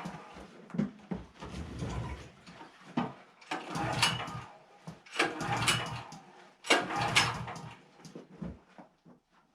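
Recoil starter of a portable generator being pulled several times with the choke set, each pull a rasping burst about one to two seconds apart. The engine does not catch and run.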